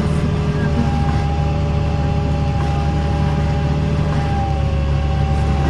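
John Deere 8420 tractor's diesel engine running steadily, a constant low drone with a thin steady whine above it.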